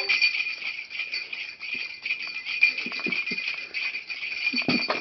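Small bells jingling rapidly and without a break, with a few soft thumps, the strongest near the end.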